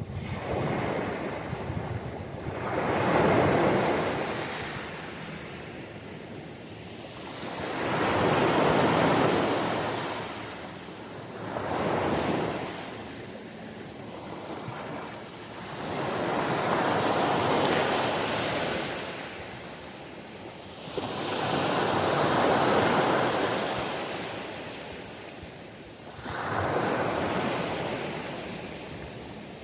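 Ocean waves breaking on a shore, each one swelling to a rush and then falling away, about six waves, one every four to five seconds.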